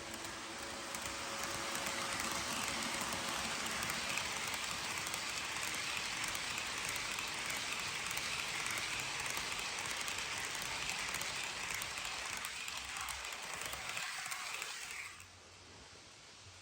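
HO scale model freight train rolling past, with a steady hiss from its metal wheels on the track. The sound cuts off suddenly about fifteen seconds in.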